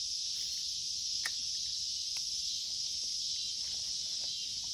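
Steady, high-pitched chorus of insects buzzing along the creek, with a few faint clicks.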